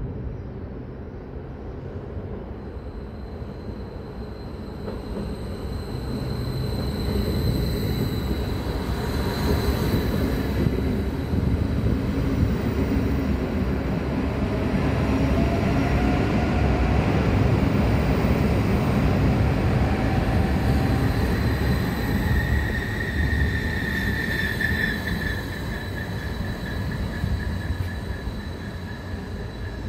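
A train running through a railway station: a low rumble of wheels on rails swells to its loudest about midway and then eases off. High squealing tones from the wheels ring over it, most strongly a little after the loudest part.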